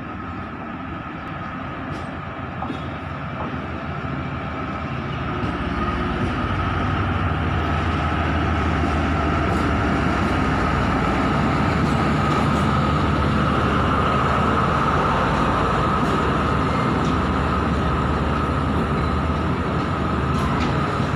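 A DEMU (diesel-electric multiple unit) passenger train running past along the platform. It grows louder over the first several seconds, then holds steady as the coaches roll by, a low rumble with a steady high whine over it.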